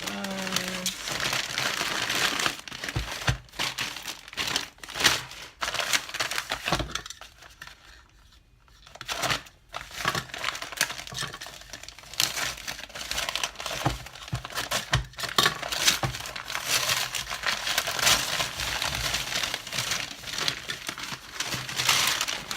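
Packaging being crumpled and torn open by hand while a delivery of parts is unwrapped: irregular rustling and crinkling with brief pauses.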